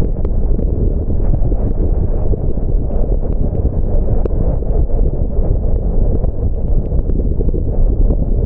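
A car driving on wet roads: a steady low rumble of road and wind noise, with scattered light ticks of rain hitting the car.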